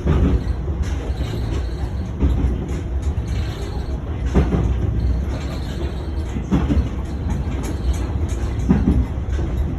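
KiHa 120 diesel railcar running, heard from on board: a steady low engine and running rumble, with a short thud from the wheels passing over rail joints roughly every two seconds.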